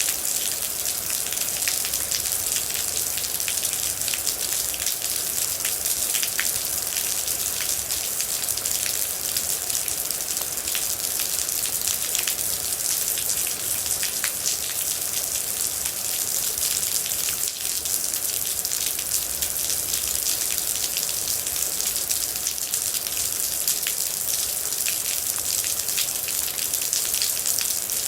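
Steady rain falling on a surface, a constant hiss with many distinct droplet hits and splashes scattered through it.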